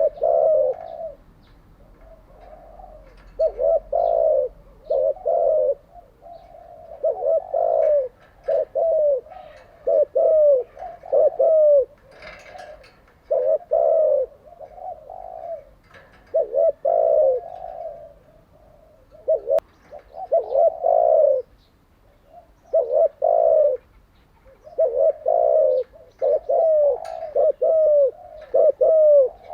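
Spotted dove cooing: repeated phrases of short, low coos, each phrase a few notes long with brief pauses between phrases, as used for training decoy and captive doves.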